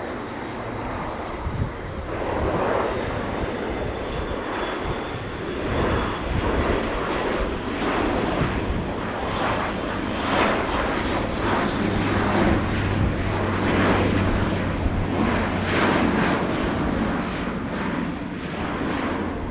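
Airbus A400M's four Europrop TP400 turboprop engines and propellers droning as the aircraft flies past, a steady rushing noise over a low hum.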